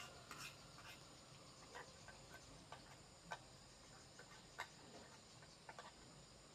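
Faint, scattered light clicks and taps at irregular intervals, sharpest about three and four and a half seconds in, over a quiet background.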